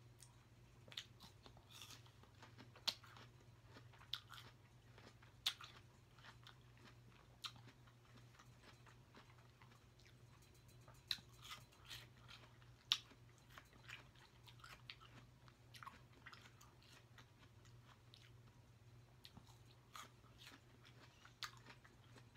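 A person chewing and biting fresh fruit close to the microphone: quiet, scattered crunches and mouth clicks, with a steady low hum underneath.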